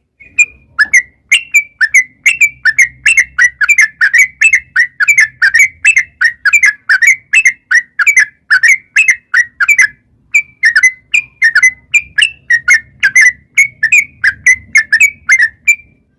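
Yellow-vented bulbul singing a long, fast run of short, bubbly whistled notes, about three to four a second, with a brief break midway.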